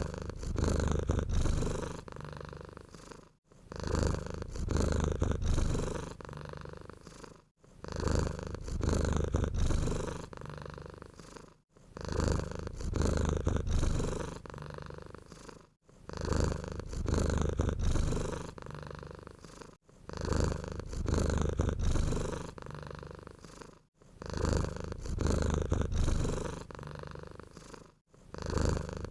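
Domestic cat purring in a steady rhythm of breaths about four seconds apart, each one starting loud and trailing off, with a brief pause between breaths.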